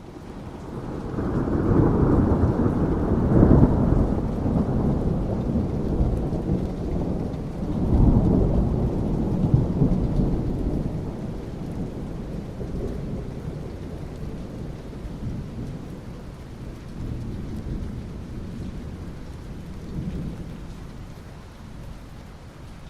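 Rolling thunder over steady rain. A deep rumble builds over the first couple of seconds and peaks about three to four seconds in, a second rumble swells about eight seconds in, then the thunder fades, leaving the rain.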